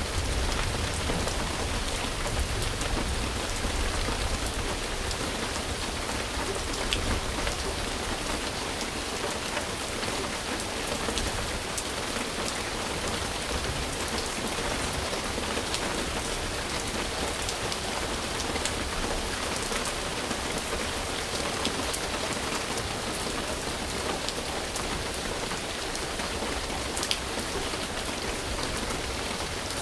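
Steady rain falling on a surface, an even hiss with scattered close drop ticks. A low rumble dies away in the first few seconds.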